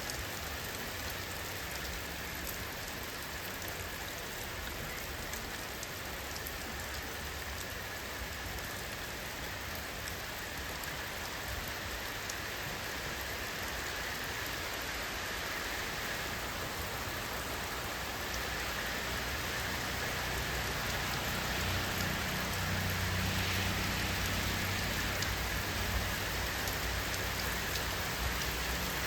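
Steady rainfall, with many separate drops striking a surface. A low rumble grows a little louder in the last third.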